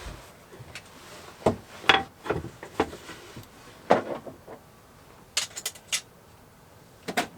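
Scattered knocks, clunks and clicks of hands working with parts and tools in a cramped boat compartment, with a quick run of sharp clicks about five and a half seconds in and a clunk near the end.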